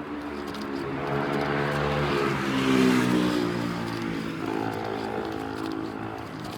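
A motor vehicle passing close by, its engine or motor hum swelling to its loudest about three seconds in and then fading away.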